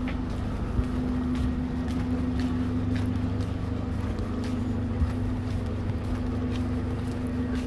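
A motor vehicle's engine running steadily, a constant low hum with a low rumble underneath, and scattered light clicks over it.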